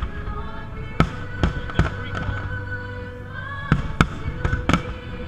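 Aerial firework shells bursting in a string of sharp bangs, about eight in all, bunched in two groups with a pause between them. Music with long held notes plays underneath.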